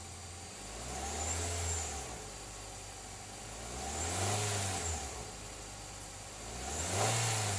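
2013 Nissan Altima engine idling and revved three times, each rev rising and falling back to idle over about a second, the last near the end.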